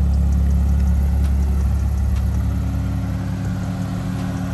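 A car engine idling steadily, with a few light clicks in the first half; the engine note settles a little quieter a little past halfway.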